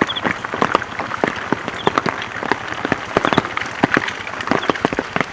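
Heavy monsoon rain pattering, with many separate drops striking close by in an irregular, dense patter over a steady hiss.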